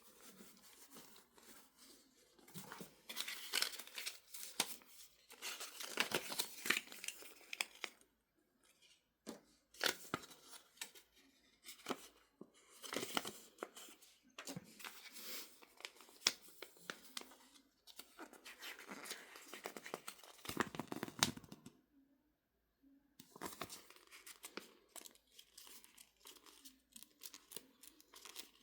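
Packaging being unpacked by hand: plastic and paper crinkling and tearing in irregular bursts, with sharp clicks and a brief pause near the end.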